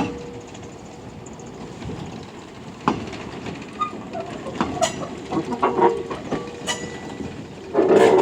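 Jōmō Electric Railway DeHa 101 electric railcar moving slowly while towing another car in shunting: scattered clanks and knocks from wheels and couplings over a low rolling rumble. A louder sound with steady tones starts near the end.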